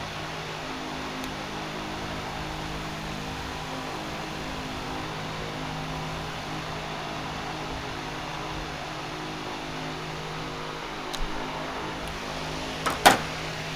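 A steady mechanical hum at a constant level, with a short sharp click about eleven seconds in and a louder double click near the end.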